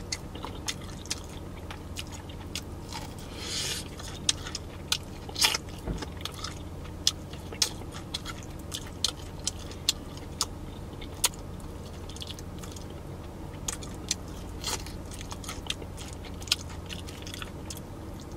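Close-miked biting and chewing of crispy fried chicken, with irregular sharp crunches throughout, over a steady low hum.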